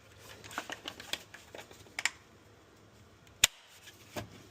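Irregular light clicks and knocks of parts being handled, with one sharp click about three and a half seconds in.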